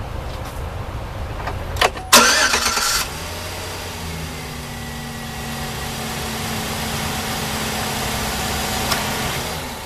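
2009 Chevrolet Silverado 1500 engine cranked and started: a click, then about a second of loud cranking as it catches, then a steady idle that cuts off near the end.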